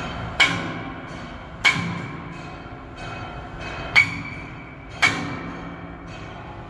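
Four hammer blows on steel, each ringing briefly with a metallic tone, at uneven intervals, the first about half a second in and the last about five seconds in.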